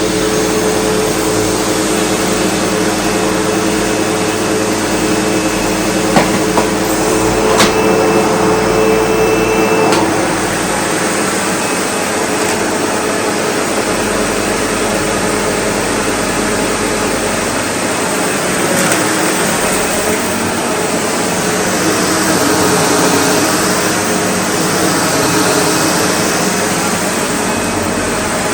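SEBO Automatic X4 bagged upright vacuum cleaner running steadily, with a few sharp clicks between about six and ten seconds in. Its tone changes around ten seconds in.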